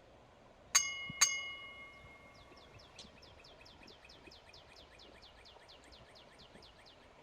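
Two bell-like metallic strikes about half a second apart, each ringing on and fading over a second or so. From about two and a half seconds in, a bird calls a rapid run of short, falling whistled notes, about five a second, over a faint outdoor background.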